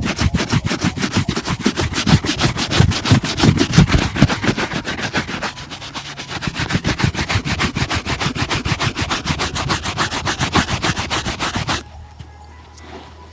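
Shoe-shine brush worked rapidly back and forth over a shoe, about six even strokes a second, stopping abruptly near the end.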